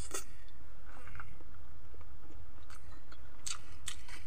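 Close-miked chewing of soft boiled vegetables eaten by hand, with short wet mouth clicks and smacks scattered through, over a steady low hum.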